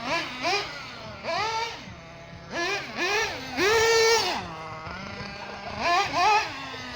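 Ansman Virus 21 RC buggy's .21 nitro two-stroke engine revving in repeated short throttle bursts, each rising and falling in pitch, with one longer rev held high a little past the middle. Between the revs it drops back to a steady idle.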